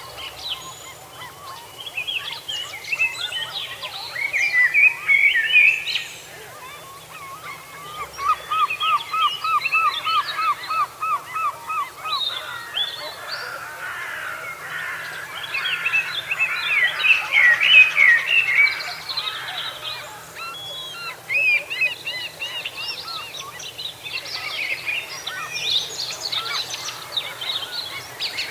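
Several wild birds singing and calling over one another, with a run of quick, evenly repeated notes starting about eight seconds in and lasting some four seconds.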